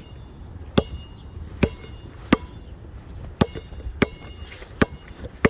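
Footsteps, seven sharp steps at a walking pace of about one every three-quarters of a second, over a steady low rumble of wind on the microphone.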